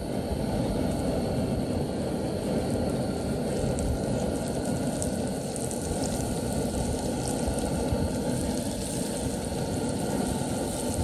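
Crappie fillets sizzling and frying in hot butter in a skillet, over the steady roar of an outdoor propane burner on a high flame.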